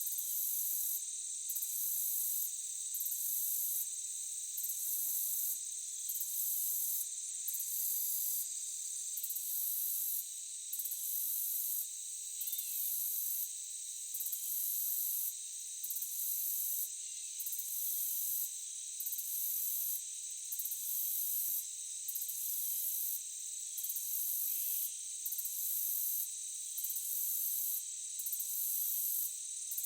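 Forest insect chorus, high-pitched and continuous: a steady drone with a higher trilling layer that pauses briefly about once a second.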